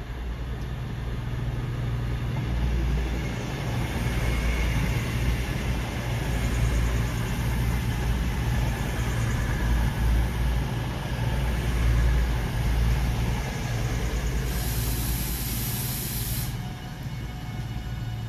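Electric locomotive hauling a container freight train slowly past: a steady low rumble of the locomotive and wagons on the track, swelling in the middle. A brief high hiss comes about fifteen seconds in.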